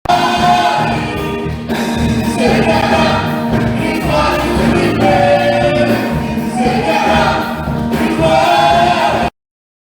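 Church choir singing a gospel song with instrumental accompaniment; the sound cuts off abruptly to silence about nine seconds in.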